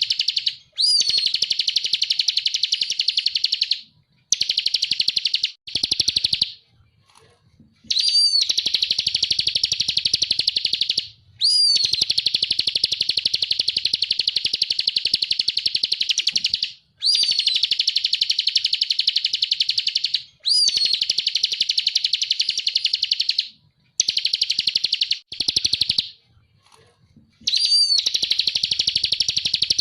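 Bar-winged prinia (ciblek) song: rapid trills of quickly repeated high notes, most bouts opening with a short downward-sliding note. The bouts last a few seconds and are separated by short pauses.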